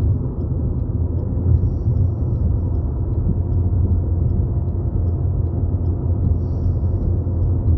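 Steady low road and engine rumble of a car heard from inside the cabin while driving at speed.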